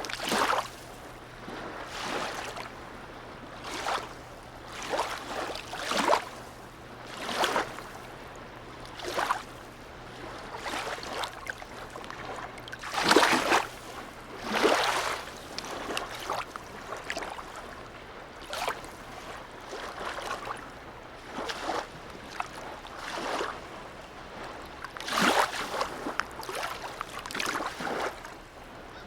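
Small harbour waves lapping and slapping, a splash every second or two, the strongest about thirteen seconds in. A faint steady low hum lies underneath and stops about two-thirds of the way through.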